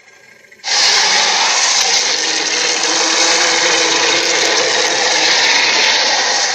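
Dinosaur roar sound effect for an Acrocanthosaurus: a long, harsh, rasping roar that starts softly, turns loud under a second in and holds for about six seconds, beginning to fade near the end.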